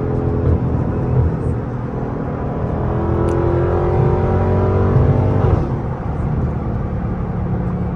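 Dodge 392 Hemi V8 (6.4 L) pulling hard under throttle, its pitch climbing, then dropping suddenly about five and a half seconds in as the transmission shifts up.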